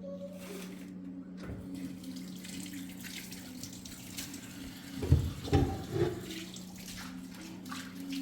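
Water running and splashing, with a few heavier thumps about five to six seconds in, over a steady low hum.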